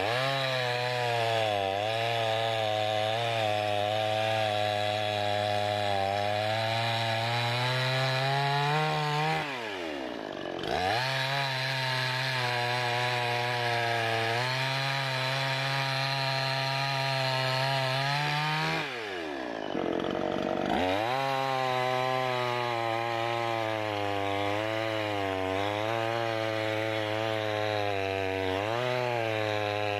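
Budget 18-inch two-stroke gas chainsaw running at full throttle, cutting through a thick log, its engine note wavering under load. The throttle is released twice, the pitch falling sharply toward idle, and the saw revs back up each time to continue the cut.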